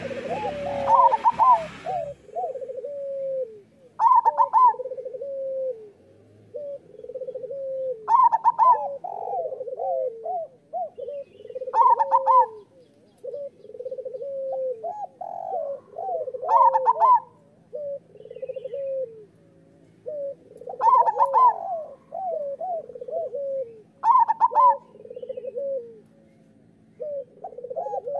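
Zebra dove (perkutut) singing its cooing song over and over: each phrase is a higher opening note followed by a string of lower, rolling coos, repeating about every four seconds. A brief hiss sits under the first phrase.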